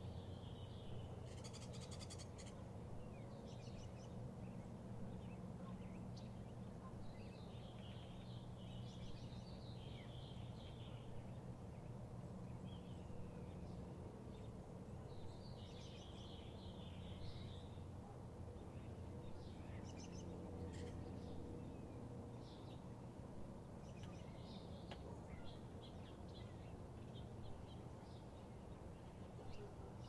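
Scattered bird chirps and calls every few seconds, heard over a steady low hum.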